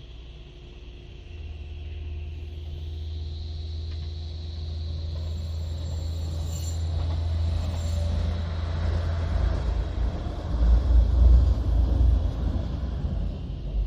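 A train approaching and passing close by on the line: a low rumble that grows steadily louder, joined in the second half by heavier wheel-on-rail noise that peaks near the end.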